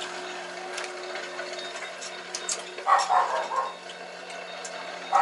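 Scattered light clicks and taps of tableware and utensils while boiled chicken is shared out, with a louder clatter about three seconds in, over a steady low hum.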